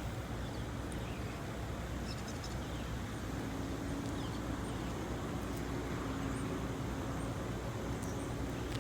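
Steady low rumble of vehicle noise outdoors, with a faint hum in the middle and a few faint, short, high bird chirps.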